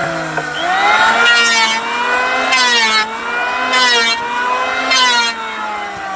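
A motor running with its pitch dipping and rising over and over, with a louder, hissier surge about every second and a quarter, like a tool being loaded and released in repeated passes.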